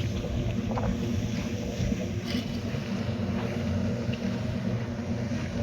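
An engine running steadily at an even speed, with a few faint clinks over it.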